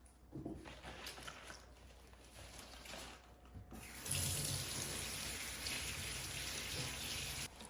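Water running from a tap into a sink, starting about four seconds in and shut off suddenly near the end, after a few faint knocks.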